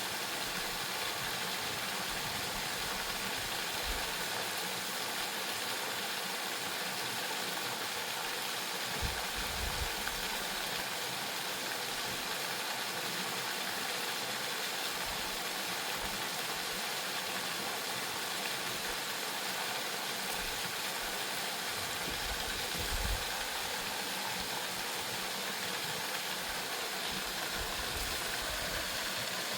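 Steady rushing of a waterfall, an even wash of falling water, with a couple of soft low thumps along the way.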